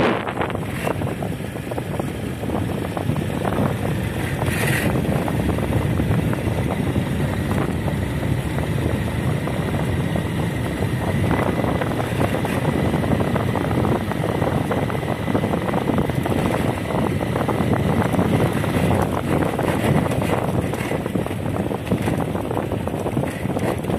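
Wind buffeting the microphone in a steady rush over the low rumble of a moving vehicle, with a faint steady whistle through the middle.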